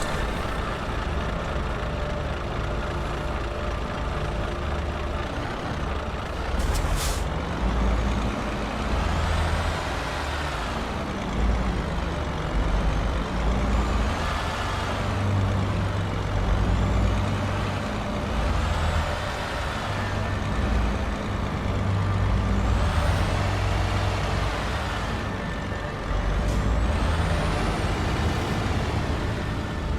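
Heavy diesel truck engine running and revving up and down every couple of seconds over a steady low rumble, with a short air-brake hiss about seven seconds in.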